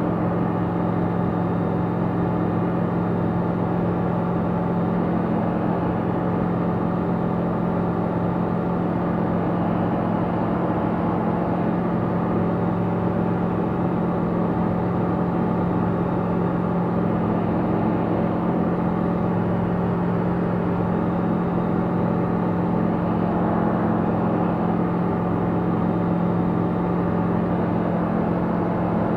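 Tecnam P96 Golf's Rotax 912 engine and propeller running steadily at constant power, a continuous even drone heard inside the cockpit.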